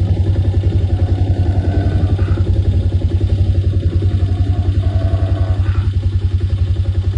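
A vehicle engine idling with a steady, even throb.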